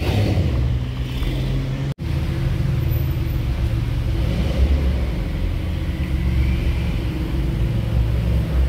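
A car engine running for the first two seconds. Then a Maserati MC20's twin-turbo V6 runs steadily at low revs as the car creeps along inside a parking garage.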